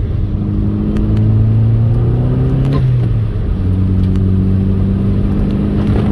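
Turbocharged Chevrolet Cobalt SS four-cylinder engine pulling under moderate throttle while driving. The engine note drops sharply at a gear change about three seconds in, then holds again until another shift near the end.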